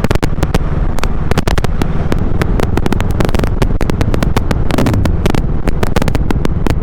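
Honda Rebel 500 parallel-twin running on the road through its new exhaust, a steady low rumble heard from a helmet microphone. Irregular sharp crackling clicks run over it throughout: a recording fault in the helmet mic or camera, not the bike.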